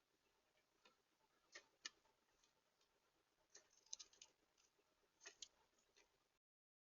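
Faint, irregular clicks and ticks, in small clusters, of birds and squirrels pecking and cracking seed at a bird feeder. The sound drops out completely for a moment near the end.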